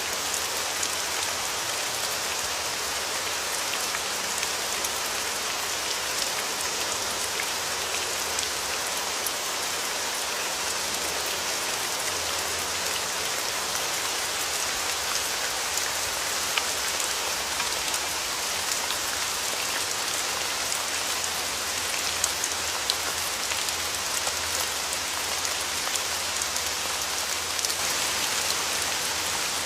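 Steady rain falling, with the close patter of many individual raindrops over a continuous hiss.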